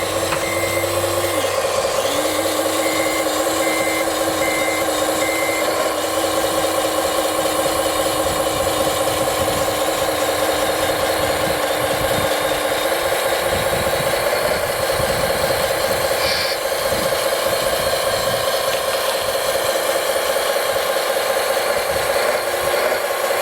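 Radio-controlled model truck running, with the steady hum and whine of its electric drive mixed with its sound module's engine noise. A reversing beeper beeps evenly for the first five seconds or so.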